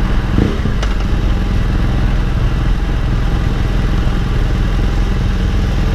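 Motorcycle engine running steadily under a rush of road noise, with a brief rising tone about half a second in and a single sharp click just under a second in.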